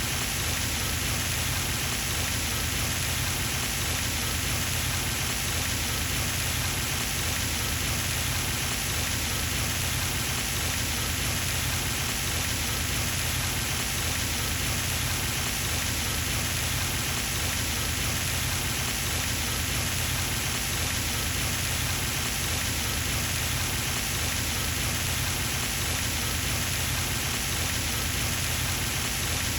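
Pond fountain splashing water steadily onto the pond surface, an even, unbroken patter.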